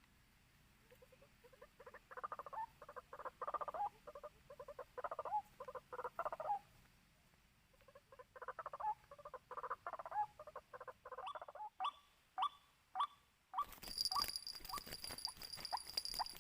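White-breasted waterhen calls: rapid, repeated croaking notes in two long bouts, then slower single notes. Near the end a loud hissing noise with a steady high whine covers them.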